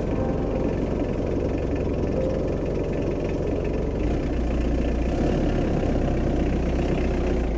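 Vehicle engine idling with a steady, rhythmic knocking beat, its low rumble getting slightly louder about four seconds in.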